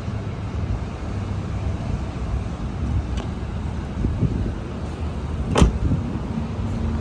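Honda HR-V 1.5 engine running steadily, heard outdoors, with a single sharp knock a little past halfway through.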